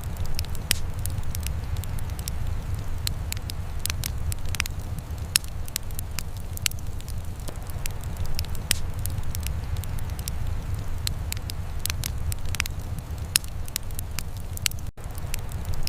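Wood fire crackling in a fireplace: irregular sharp pops and snaps over a steady low rumble, with a brief dropout near the end.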